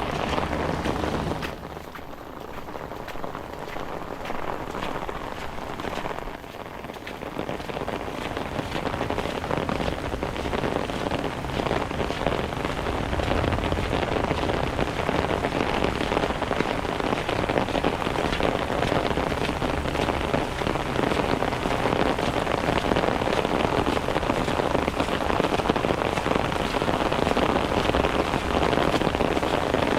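Rain falling steadily, a dense hiss of drops on hard surfaces. It eases for a few seconds near the start, then comes back steady and a little heavier.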